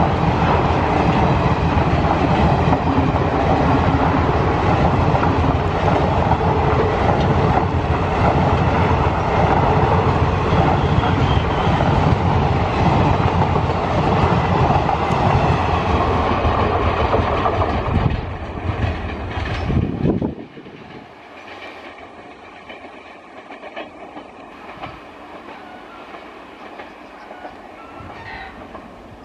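Express train's passenger coaches passing close by at speed, a loud steady rumble of wheels on rails. The sound fades a little and then drops suddenly about twenty seconds in to a much quieter background.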